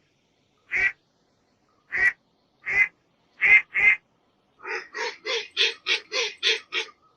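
Duck quacking: five single quacks spaced roughly a second apart, then a fast run of about ten quacks in a row near the end.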